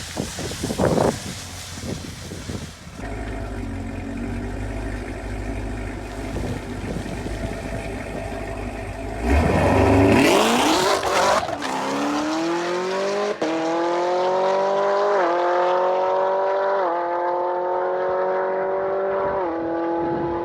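A car engine idling, then launching hard about nine seconds in and accelerating away. Its note climbs and drops back at three upshifts as it draws into the distance.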